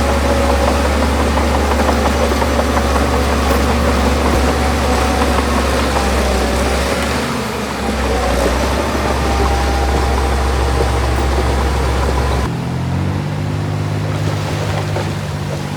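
Heavy earthmoving machine's diesel engine running steadily with a deep drone. About three-quarters through, the sound changes abruptly to a thinner, higher set of steady tones.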